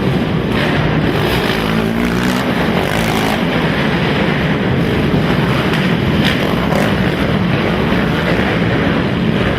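Racing quad (ATV) engines running hard together, their pitch rising and falling as the riders rev and back off, with a clear rising rev about two seconds in.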